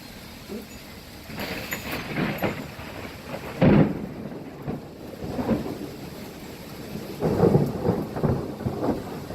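Thunder rumbling in irregular rolls over steady rain. The rolls begin about a second in, there is one sharp loud clap near four seconds, and a second loud stretch of rumbling comes near the end.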